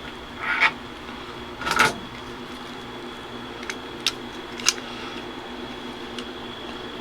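Steady hum of electric shop fans. Two brief rustles of handling come in the first two seconds, and a few small sharp clicks follow about four to five seconds in, as steering-column hub parts are fitted together by hand.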